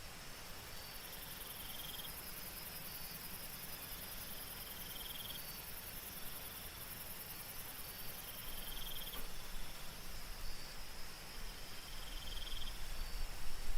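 Night insects calling over a soft hiss of light rain: a high continuous trill that stops about nine seconds in, and a lower pulsed chirp repeating about every three seconds. A low rumble grows louder toward the end.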